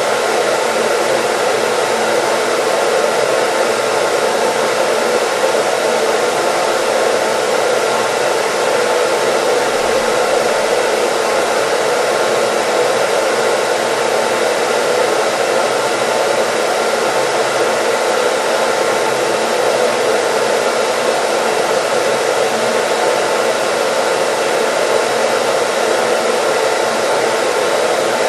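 Hair dryer running continuously, a steady even whoosh of airflow and motor with no change in speed, used as white noise.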